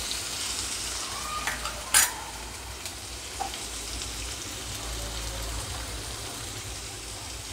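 Chopped onion, green chillies, garlic and ginger sizzling in hot oil in a nonstick kadhai: a steady frying hiss. One sharp knock about two seconds in, and a few lighter ticks.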